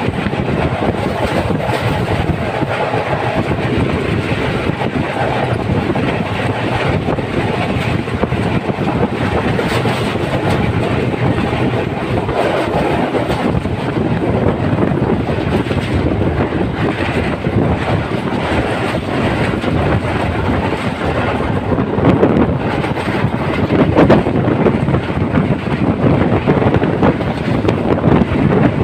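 Passenger train running along the track, heard from on board: a steady loud rattle and clatter of wheels on rails and the carriage shaking, growing louder with sharper knocks in the last several seconds.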